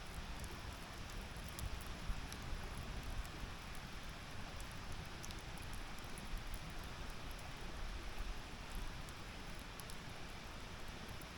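Wood campfire burning: a steady low hiss with scattered small crackles and pops.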